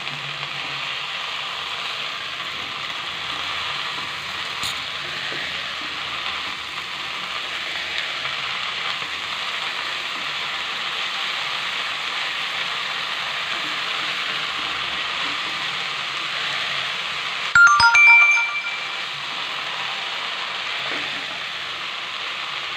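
Steady sizzle of bathua greens frying with potato and brinjal in a wok, stirred in with a spatula. About 18 seconds in, a short, louder ringing clang cuts across it.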